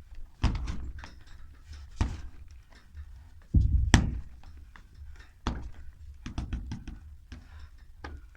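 A string of heavy thuds and sharper slaps from martial arts training: kicks, strikes and feet landing after jumps, irregularly spaced, the loudest about four seconds in.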